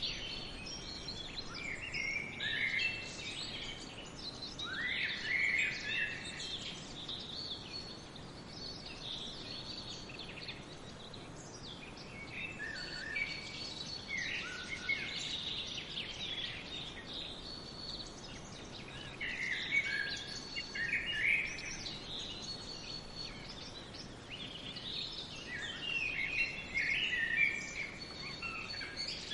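Several songbirds singing in a forest, in phrases that come and go every few seconds over a steady background hiss of wind and distant water.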